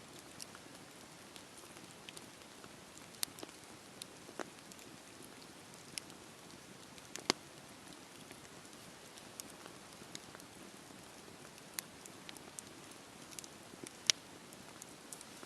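Campfire burning and crackling: a soft steady hiss with irregular sharp pops, the two loudest about seven seconds in and near the end.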